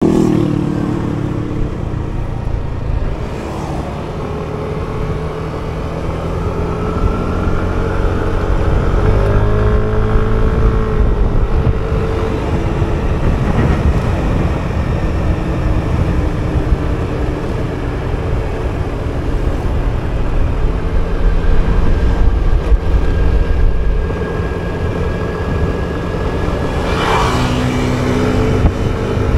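Motor scooter on the move: its small engine runs and rises and falls in pitch as it speeds up and slows down, under a heavy rumble of wind on the microphone and other traffic.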